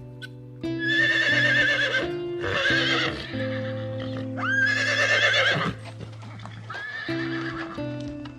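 A horse whinnying four times, each call a quavering, wavering neigh of about a second, over steady background music.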